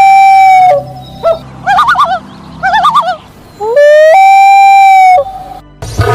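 Bird calls: two long, loud calls that slide up in pitch and then hold one steady note for about a second each, with two short bouts of quick warbling notes between them. A rhythmic music track starts near the end.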